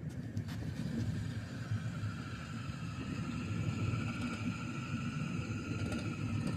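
Vehicle driving along a road: a steady low rumble with a faint steady whine over it.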